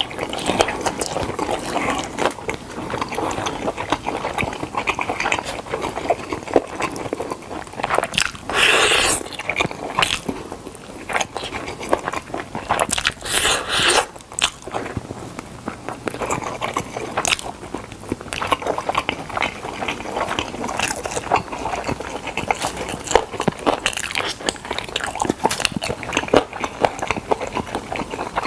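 Close-up chewing and biting of smoked chicken: a dense run of small wet mouth clicks and crunches, with two louder, longer noisy rushes about 9 and 13 seconds in.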